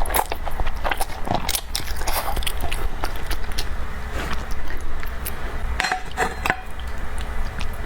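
Close-miked eating sounds: chewing and biting, with many short, wet mouth clicks.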